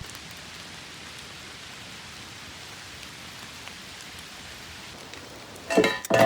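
Steady rain falling, an even hiss. Near the end comes a sudden, much louder knock with a short ringing tone, like something being set down or clinking.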